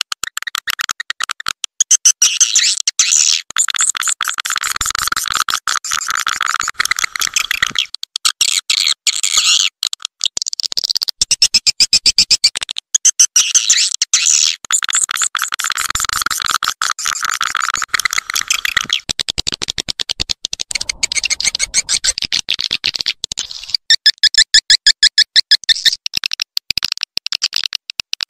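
Swiftlet calls in a house-lure recording: a dense, rapid chattering of high clicks and chirps in bursts a few seconds long, broken by short gaps, turning into a run of evenly spaced pulses near the end.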